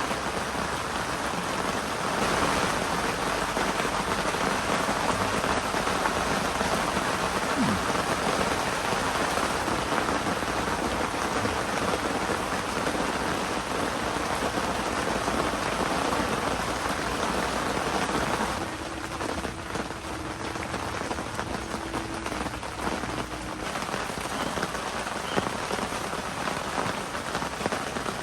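Heavy typhoon rain falling steadily, a little lighter about two-thirds of the way in.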